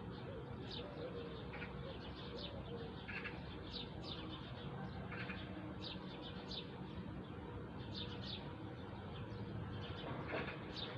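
Birds chirping: many short, high chirps repeating every half second or so, over a steady low background rumble.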